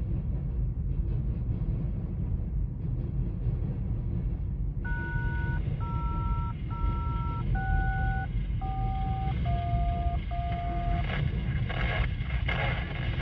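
Empty covered hopper cars of a freight train rolling past with a steady low rumble. About five seconds in, a scanner radio sounds a string of seven touch-tone (DTMF) beeps, each two pitches at once, followed by a burst of radio hiss near the end.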